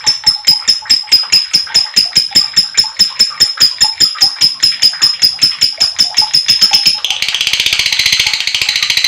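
Lovebird's long 'ngekek' chatter: a shrill call repeated about six times a second, switching about seven seconds in to a faster, denser trill.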